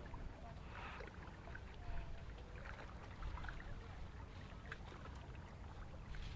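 Small clicks and rustles of fishing line and tackle being handled while a drop-shot rig is set up, over a steady low rumble.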